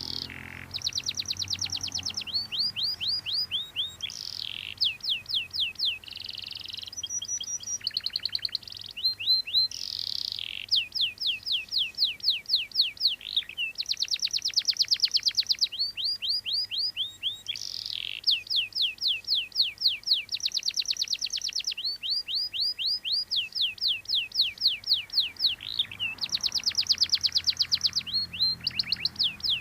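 Domestic canary singing continuously in long trilled phrases, each a rapid run of repeated notes, switching between faster and slower trills with only short breaks.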